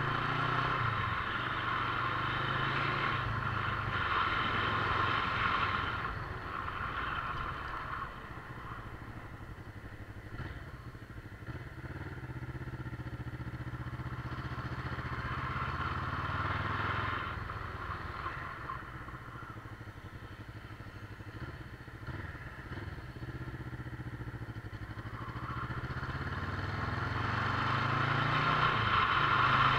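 Motorcycle engine running under way, its note rising and falling with the throttle. It is louder in the first few seconds, briefly around the middle, and again toward the end.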